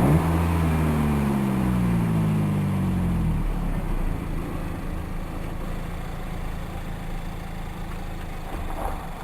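Mazda MX-5 Miata ND2's four-cylinder engine gives a sharp throttle blip, typical of a rev-matched downshift, then its revs fall steadily as the car slows. After about three and a half seconds the engine note drops out, leaving a lower, steady wind and road rumble.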